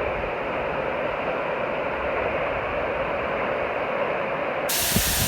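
A waterfall rushing steadily. Near the end a brighter, harsher hiss cuts in suddenly.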